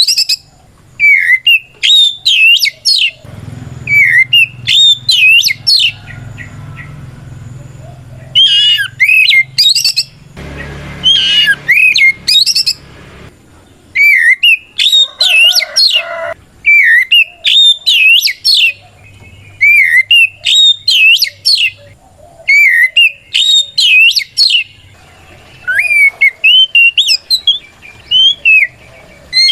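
Oriental magpie-robin singing its loud, full territorial song that calls out a rival: quick phrases of sweet whistled notes sliding up and down, repeated in bursts a second or so long with short pauses between.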